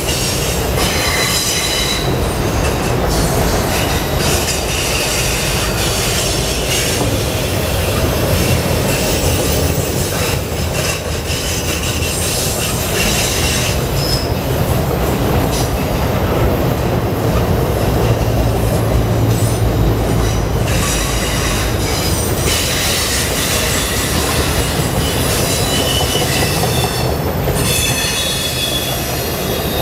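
Autorack freight cars rolling past on curving track: a steady rumble of wheels on rail, with high wheel squeal coming and going and an occasional clack.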